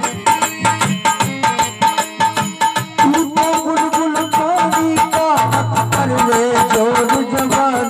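Instrumental break in a folk devotional bhajan: a dholak drives a fast, even rhythm with rattling percussion. About three seconds in, a wavering melody line comes in over the drumming.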